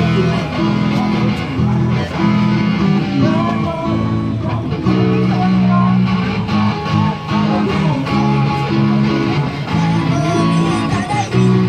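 Live music: guitar chords with a wavering melody line over them.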